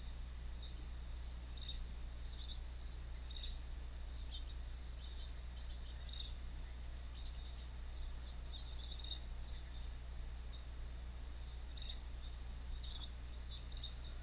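Scattered short, high bird chirps at irregular moments over a steady low hum.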